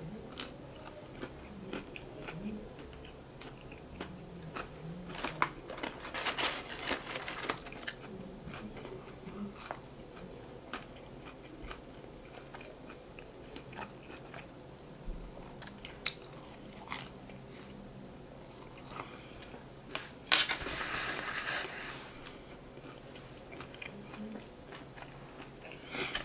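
A person chewing fried chicken and French fries close to the microphone, with frequent small mouth clicks and crunches. There are two louder, noisier stretches of crunching, about six seconds in and about twenty seconds in.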